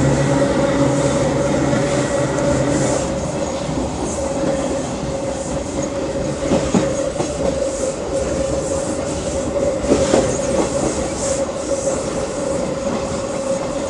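CPTM electric commuter train, unit 4417, running with a loud rumble and a steady whine, with a couple of sharp clacks about seven and ten seconds in.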